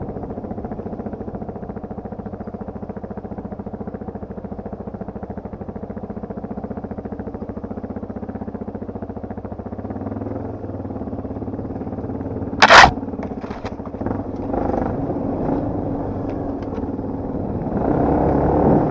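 Off-road motorcycle engine running steadily, with one loud sharp knock about two-thirds of the way through, followed by a few lighter clicks and knocks.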